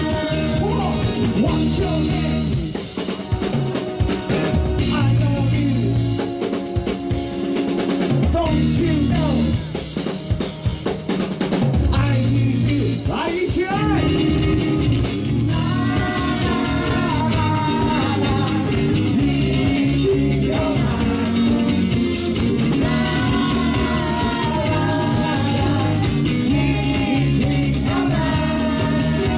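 Live rock band playing a song: a drum kit keeps a steady beat under a sung vocal melody that grows prominent in the second half.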